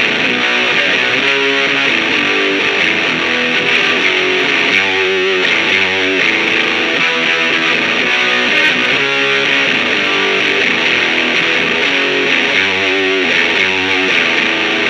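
Distorted electric guitar playing a continuous grunge riff of changing chords and notes, run through distortion pedals and an amp-simulation impulse response.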